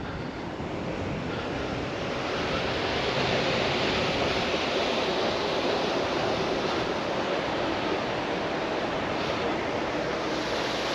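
Ocean surf breaking on the shore, a steady rush that swells about two seconds in and then holds.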